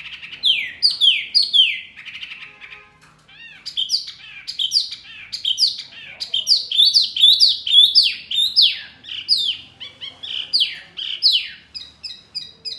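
Songbird song: a fast run of loud whistled notes, each sliding downward in pitch. In the first two seconds they sit over a buzzy chattering trill. After a brief lull about three seconds in, the notes come thick and quick to the end.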